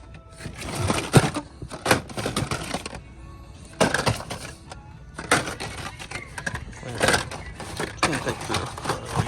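Repeated clattering and rustling from handling blister-packed die-cast toy cars, with music playing underneath. There are quieter gaps about three and four and a half seconds in.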